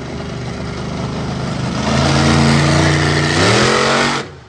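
Monster truck's big V8 engine running hard at high revs, getting louder about two seconds in, then rising in pitch before cutting off suddenly near the end.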